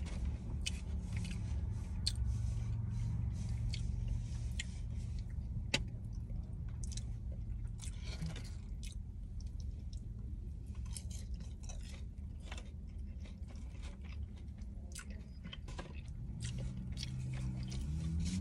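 Close-miked eating: chewing and biting of a cheeseburger and fries, with wet mouth clicks and a few sharper crunchy bites, over a steady low hum.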